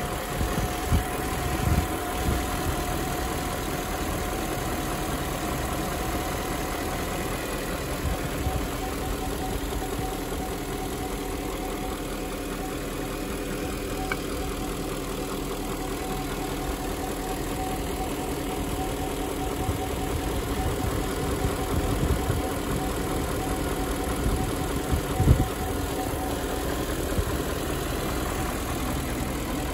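BMW E38 740i's 4.4-litre V8 idling steadily, with a few short low thumps, the loudest about 25 seconds in.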